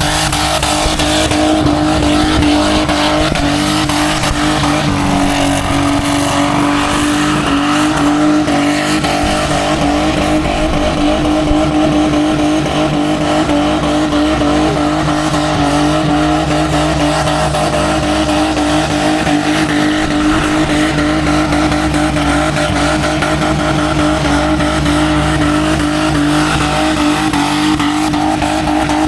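Car engine held at high, nearly constant revs through a long burnout, with the tyres spinning on the pad and screeching.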